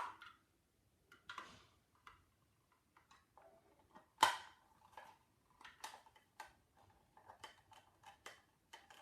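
Scattered small clicks and taps of a sewing machine foot pedal's casing and parts being handled and fitted back together, with one louder knock about four seconds in and a run of lighter ticks near the end.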